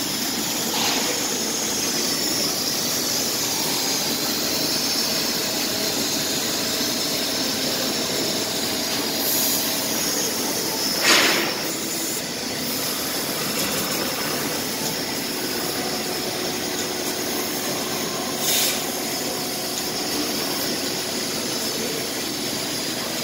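Laser cutting machine at work on sheet steel: a steady hiss and high whine, with a short loud burst about eleven seconds in and another, smaller one near eighteen seconds.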